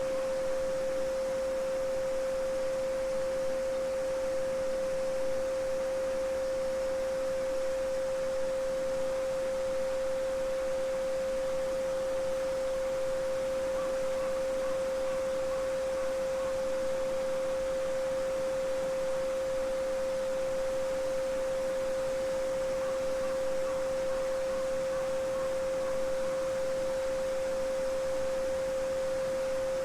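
A steady 528 Hz sine tone (the Solfeggio frequency) holds one pitch throughout, over the even rushing of a babbling brook.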